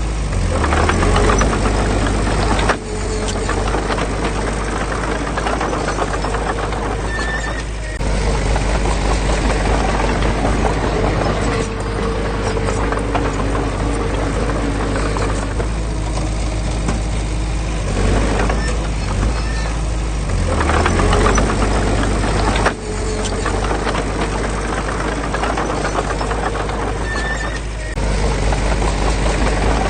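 Heavy diesel construction machinery running steadily, likely the small bulldozer working soil. The sound changes abruptly several times.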